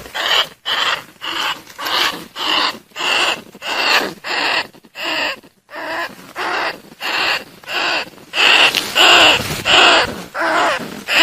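Bandicoot rat calls used as a hunter's lure: a steady run of short, harsh squeals repeated about twice a second, louder from about two-thirds of the way in.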